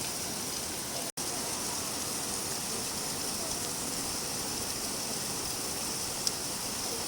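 Steady rain falling, an even hiss with no let-up, cut by a very brief dropout about a second in, with a single light tick near the end.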